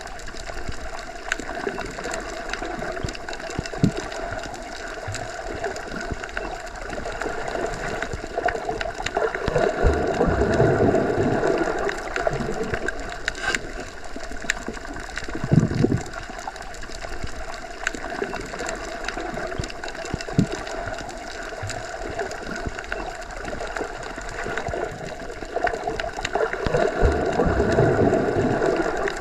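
Underwater ambience: a continuous muffled water rush with a steady mechanical whir, swelling twice, with a few short knocks.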